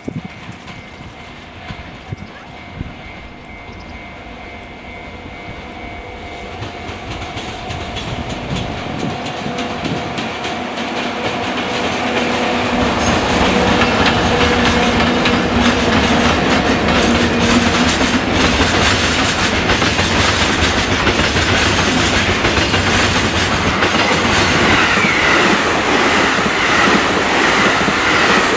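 Freight train hauled by two EF64 electric locomotives running together, approaching with a steady whine and growing steadily louder. It then passes as a long train of tank wagons with a sustained rumble and clickety-clack of wheels over rail joints. Near the end a passenger electric multiple unit passes close on the nearer track.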